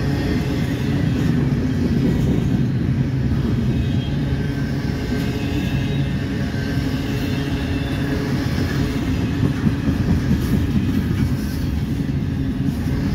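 Double-stack intermodal well cars of a CSX freight train rolling past, a steady rumble of steel wheels on rail.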